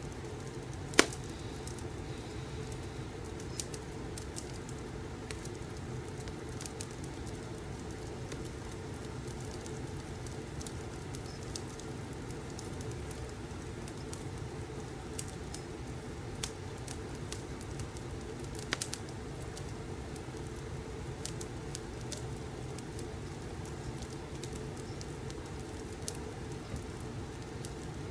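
Fireplace crackling: steady low noise of the fire with scattered sharp pops and clicks, and one loud pop about a second in.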